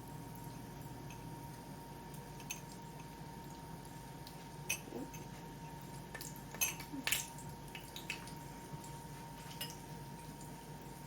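Kitchen utensils tapping and clicking against dishes, a handful of short taps with the loudest pair close together about two-thirds of the way through, over a faint steady hiss and hum.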